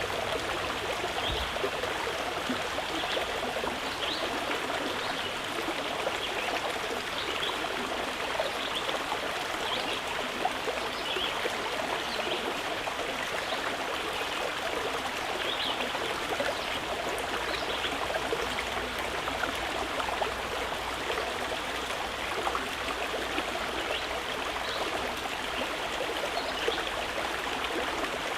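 Stream water flowing steadily, an even rushing with many small trickling splashes.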